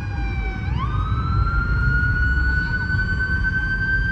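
A siren wailing: its pitch sinks slowly, jumps up quickly just under a second in, then climbs slowly for the rest of the time, over a steady low rumble.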